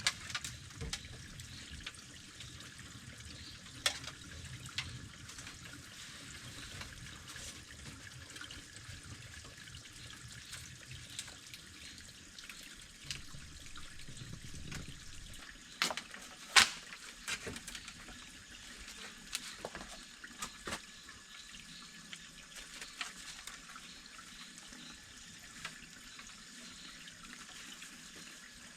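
Water running or trickling steadily, with a few sharp knocks or clicks, the loudest about two-thirds of the way through.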